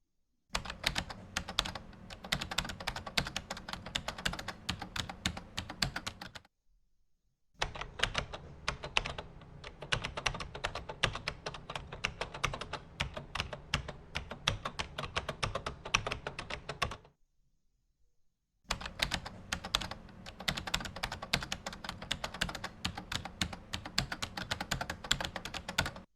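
Rapid, dense clicking and tapping in three long runs of several seconds each, with short silent pauses between them.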